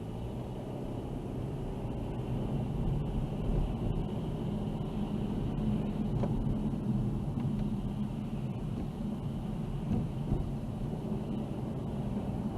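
A car driving, with a steady engine hum and road noise that grow louder over the first few seconds, then hold steady.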